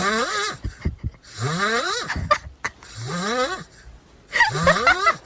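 A pet snoring: four snores about a second and a half apart, each rising in pitch.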